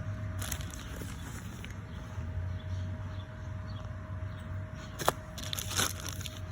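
Crinkling and clicking of things being handled and moved about, the sharpest click about five seconds in, over a steady low hum.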